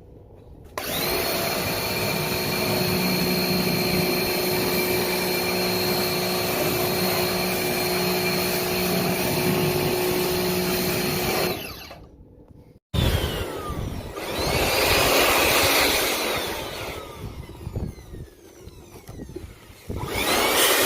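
Handheld electric air blower switched on about a second in and running steadily, blowing water and dust out of an air conditioner's parts. It stops around the middle, then runs again with the sound swelling and dropping as it is aimed about.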